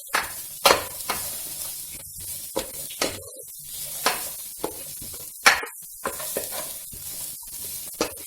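Chopped carrots, onion, ginger, garlic and chillies sizzling in butter in a pan, stirred with a spatula that scrapes and knocks against the pan about every half second to a second; the loudest stroke comes about five and a half seconds in.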